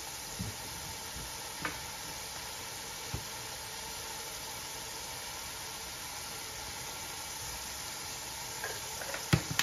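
Green masala paste and chopped tomatoes sizzling steadily in oil in a pot on a gas stove. A few faint knocks, and a sharp click near the end as salt is added.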